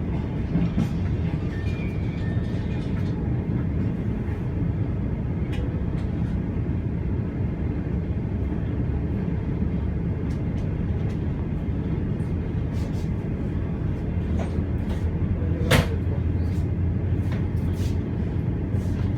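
Passenger express train running along the line: a steady low rumble and hum, with scattered sharp clicks and knocks and one louder bang a little over fifteen seconds in.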